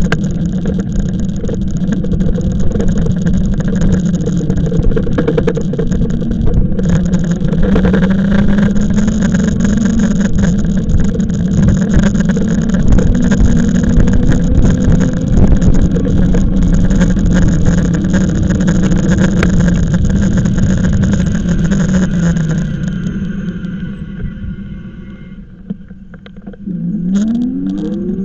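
Riding noise from an e-bike: wind buffeting the microphone over a steady motor hum that drifts slightly with speed. Near the end the noise dies down briefly, then a quickly rising whine comes in as the bike picks up speed again.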